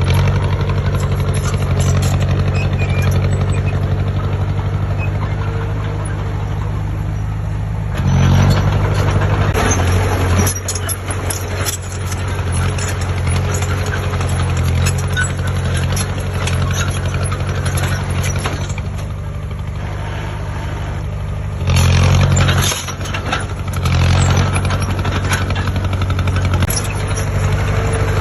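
Heavy diesel engine of earthmoving machinery running, with its level surging briefly twice: about a third of the way in and again near the end. Scattered knocks and rattles are heard over the engine.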